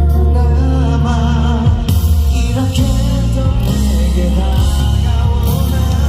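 Live band music played loud through a PA: a ballad with heavy bass under long, wavering melody notes.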